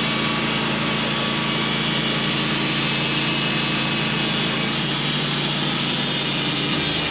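Band sawmill with a carbide blade making a skim cut through a knotty spruce log: a steady engine drone under the even noise of the blade in the wood.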